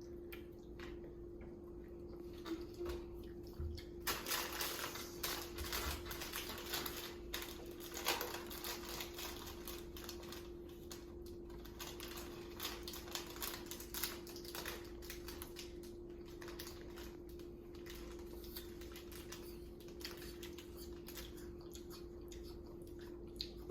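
Rapid small clicks and rustling from handling things at the table, starting about four seconds in and thinning out later, over a steady low hum.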